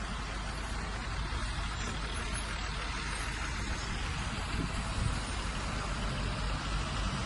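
Bulldozer's heavy diesel engine running steadily.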